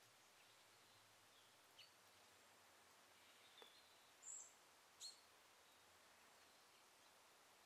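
Near silence: faint outdoor background hiss with a few short, high bird chirps between about two and five seconds in.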